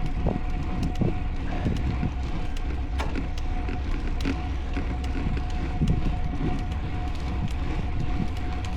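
Wind rumbling on the microphone of a road bike being ridden, with tyre and road noise, scattered small clicks and a faint steady hum.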